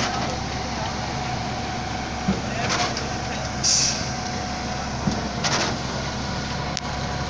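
Truck-mounted concrete pump running steadily at a construction pour, with a swishing surge about every three seconds as it pumps, and a short sharp hiss of released air about three and a half seconds in.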